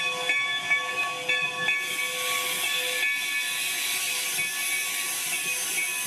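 Steam locomotive whistle blowing a steady chord, with a few brief breaks, that fades out about three seconds in, while a hiss of escaping steam rises.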